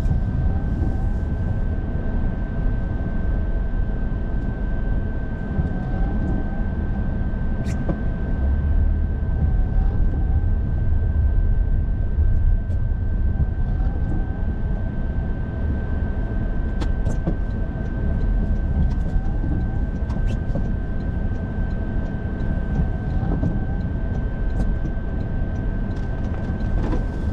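Car driving, heard from inside the cabin: a steady low rumble of engine and road noise with a thin steady high tone over it and a few faint scattered clicks.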